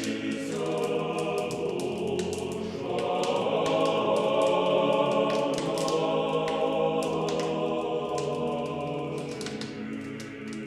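Closing music: a choir singing slow, held chords, swelling louder a few seconds in and fading toward the end.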